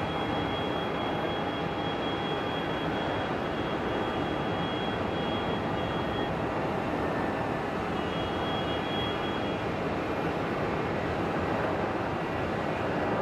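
Jet airliner engines running steadily, with a faint high whine that comes and goes.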